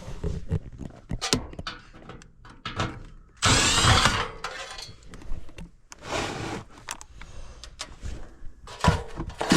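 Tools and metal parts being handled in a string of clicks and knocks, with a short burst of a cordless power driver about three and a half seconds in and a briefer one near six seconds.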